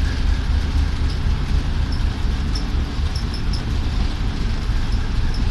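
ChME3 diesel-electric shunting locomotive's six-cylinder diesel engine running steadily with a deep low rumble, with a few faint high ticks over it.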